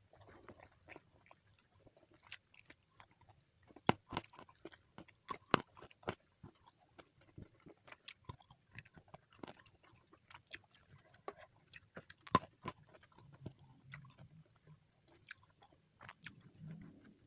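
Close-up chewing and biting of a meal of fried chicken and raw vegetables. Irregular sharp clicks and crunches come every second or so, the strongest about four seconds in and again about twelve seconds in.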